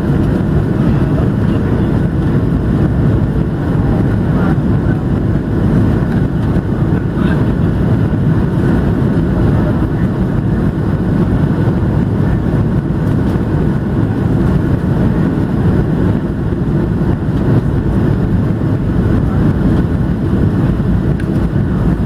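Steady cabin noise inside a Boeing 737-700: a low, even rumble of the CFM56 jet engines and airflow that holds level throughout.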